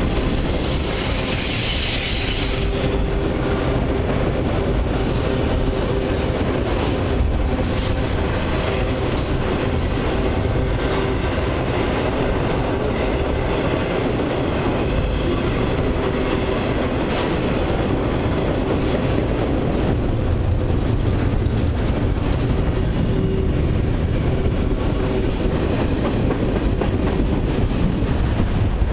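Long freight train of autorack cars rolling past: steady rumble of steel wheels on rail with clickety-clack at the rail joints. A faint whine comes and goes.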